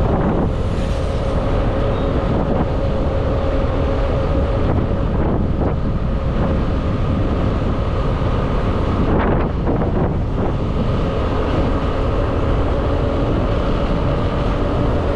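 Motorbike engine running steadily while riding, with wind rushing over the microphone; a brief change in the sound about nine to ten seconds in.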